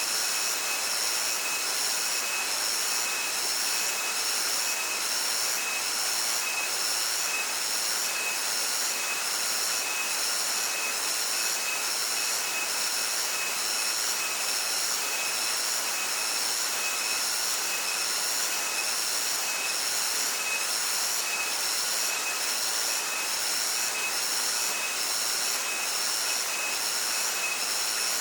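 Cicadas droning in a high-pitched chorus that pulses in an even rhythm, over the steady rush of stream water.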